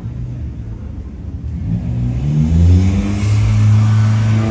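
A car engine revving up as the car accelerates close by. The pitch climbs about halfway through, holds, then climbs again near the end, growing louder in the second half.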